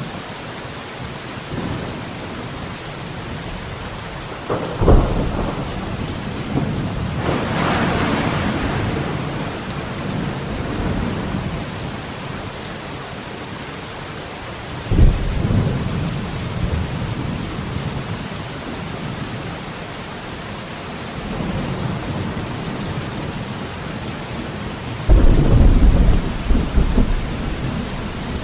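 Heavy rain falling steadily on forest foliage, with thunder: sudden claps about five and fifteen seconds in, a crackling peal soon after the first, and a long rumble near the end.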